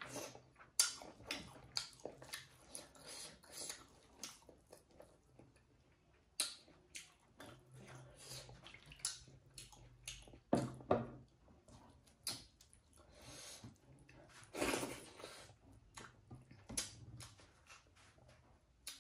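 Close-miked eating sounds: chewing and wet lip smacks in quick irregular clicks, with fingers mixing rice and dal on the plate.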